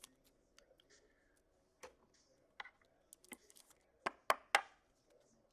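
Faint handling noise of trading cards and their packaging: a few scattered light clicks and taps, the loudest a quick run of three about four seconds in.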